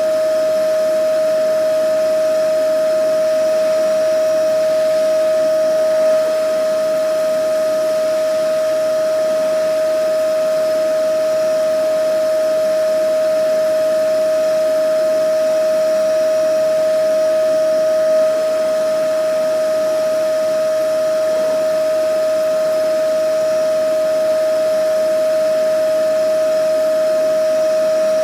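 Vacuum cleaner running steadily: a constant motor whine over an even rush of air, with no change in speed.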